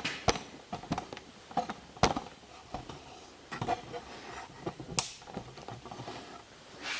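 Scattered knocks, clicks and light clatter of tools and metal parts being handled in a small workshop, with a few sharper knocks about a third of a second, two seconds and five seconds in.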